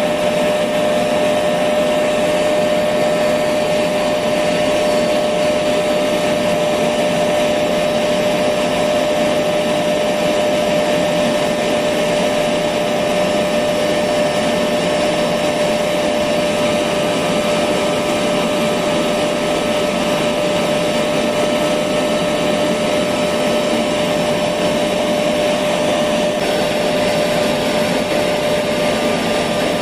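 Electric vacuum cleaner running continuously: an unchanging rush of air under a steady motor whine.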